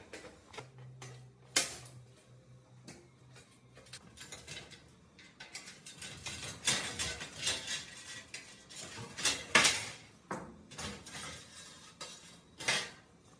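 Irregular clinks and knocks of small metal parts and tools being handled while working on an old PC, a dozen or so sharp strikes at uneven intervals. A low hum sounds briefly in the first few seconds.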